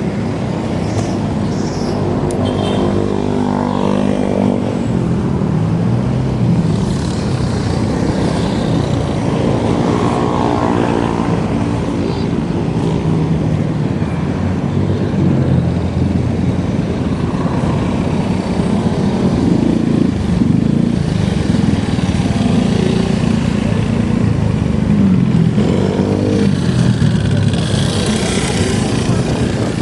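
Steady rush of wind and road noise while riding. Motor vehicle engines rise and fall in pitch three times as traffic goes by.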